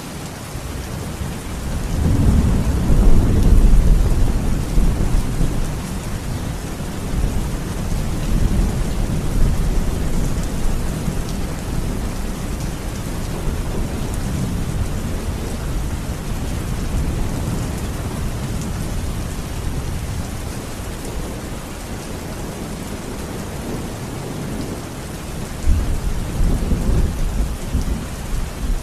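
Steady rain with rolling thunder. A long low rumble swells about two seconds in and slowly dies away, and another rumble starts near the end.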